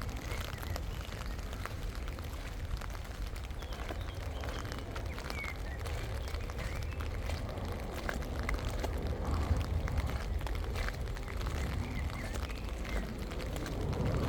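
Wind rumbling on the microphone, with faint scattered clicks of footsteps while walking outdoors.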